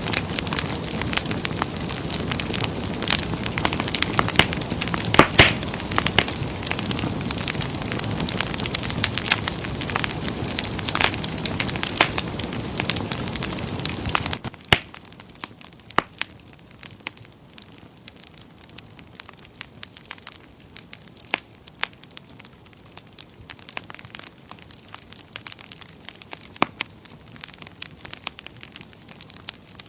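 Wood fire in a fireplace crackling and popping over a dense, steady rush of flame. About halfway through the rush drops away abruptly, leaving quieter, sparser crackles and pops.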